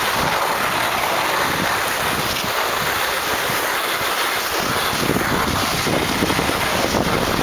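Skis hissing and scraping steadily over icy, hard-packed snow at speed, with wind buffeting the microphone.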